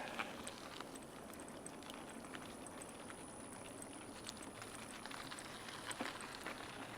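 Bicycle tyres rolling over a gravel trail: a steady, faint noise with scattered small clicks.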